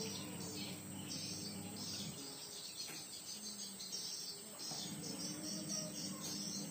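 Insects chirping steadily in the background, a shimmering high trill, over a steady low hum that drops out about two seconds in and returns near the end.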